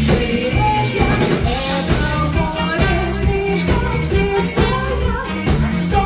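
Live pop-rock band playing steadily, with drum kit, bass and guitar, and a voice singing over the music.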